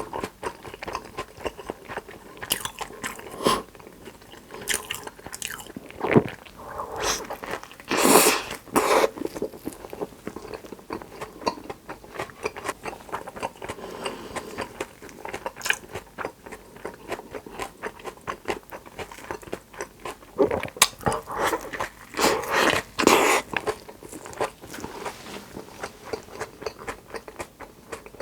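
A person eating close to the microphone: repeated bites and chewing with crunching and wet clicking, with louder bites about eight seconds in and again a little past twenty seconds.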